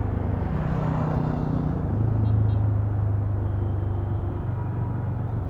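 TVS Ronin's single-cylinder engine running steadily with the throttle backed off, heard from the rider's helmet mic over constant wind and road rumble.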